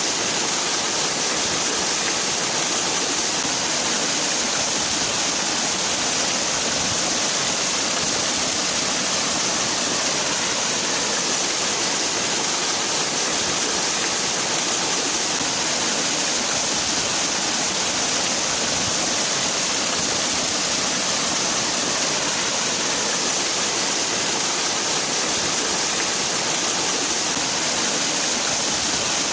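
Waterfall: water falling and splashing in a steady, unbroken rush with a hissy top.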